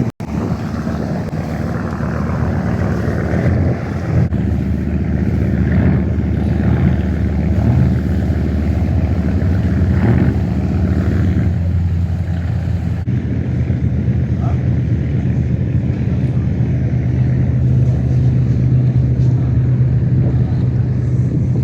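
Ferry boat's engine running steadily, a low drone under water and wind noise; its note shifts a little past halfway.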